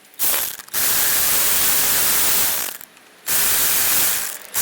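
Pressurised spray hissing in three bursts: a long one of about two and a half seconds, a one-second one, then a third starting near the end.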